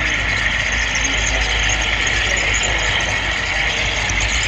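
Steady rolling and running noise of a model railroad camera car travelling along the track, heard up close through the GoPro Session camera riding on it.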